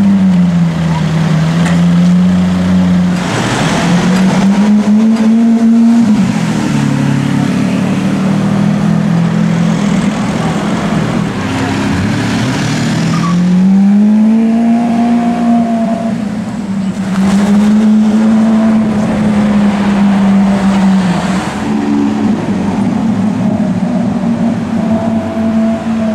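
Lamborghini Aventador's V12 engine running at low revs, its note rising and falling repeatedly as the car drives slowly, with a few louder, rougher surges along the way.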